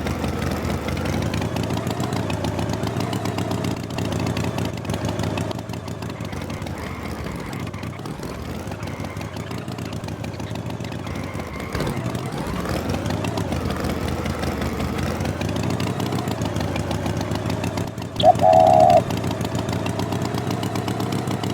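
A cartoon tractor's engine running steadily, its pitch dipping and coming back up twice. A short, loud high tone, like a honk, cuts in about three seconds before the end.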